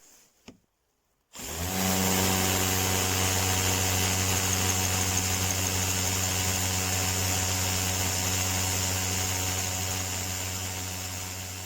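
Bosch EasyImpact 18V-38 cordless drill: a couple of faint clicks, then about a second and a half in the motor starts and runs at a steady speed, easing off a little near the end.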